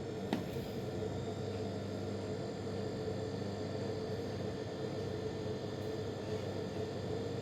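Steady machine hum and whir, with a single click about a third of a second in.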